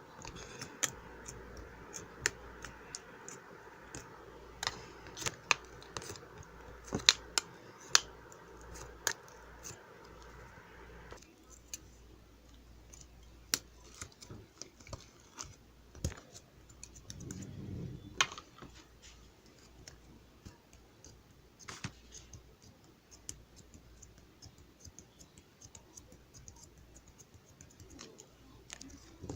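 Scattered small clicks and scratchy taps, irregularly spaced, over a steady background hum that stops about eleven seconds in.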